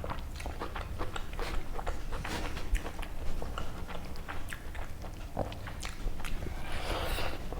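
Close-miked eating sounds: chewing and mouth smacking on chicken kosha and rice eaten by hand, with many short wet clicks and a longer, noisier stretch near the end.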